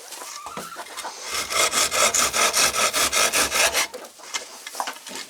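Hand saw cutting through a wooden board in quick, even back-and-forth strokes, stopping near the end.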